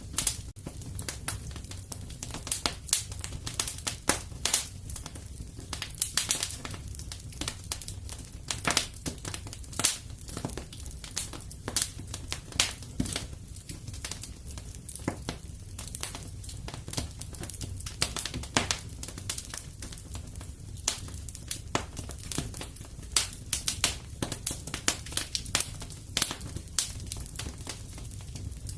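Wood fire burning in a fireplace: a steady low rumble of flame under irregular crackles and snaps, several a second, with louder pops scattered throughout.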